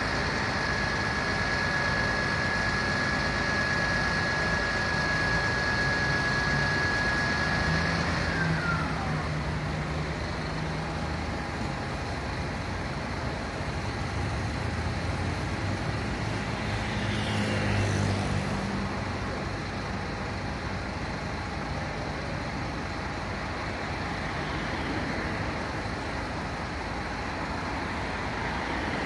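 Street traffic with a heavy truck engine running. A steady high tone holds for the first several seconds, then slides down in pitch about eight seconds in, and a descending sweep passes at about the middle.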